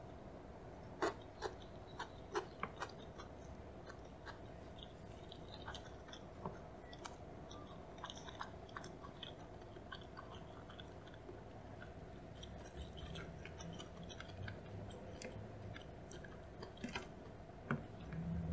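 Close-miked chewing of a salmon and cucumber maki roll: wet mouth sounds and small crunches. A few sharp clicks come about one to three seconds in and again near the end, over a faint steady hum.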